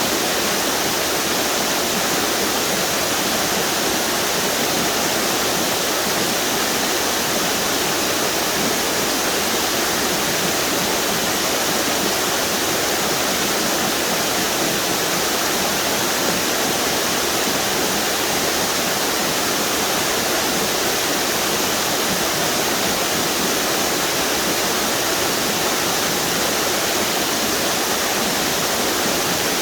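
A string of small river waterfalls on the Duck River, with water rushing and splashing over rock ledges in a steady, loud roar.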